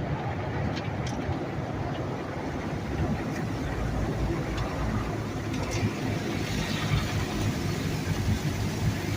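Automatic car wash tunnel machinery running steadily around the car, heard from inside it: a constant low rumble and wash noise, with a few faint ticks scattered through.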